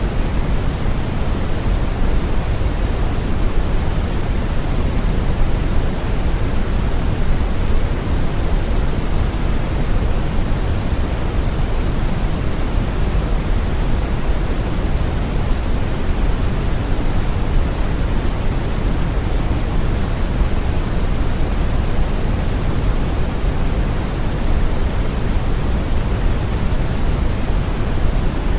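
Brown noise: a steady, even rushing hiss weighted heavily toward the bass, with no changes or events.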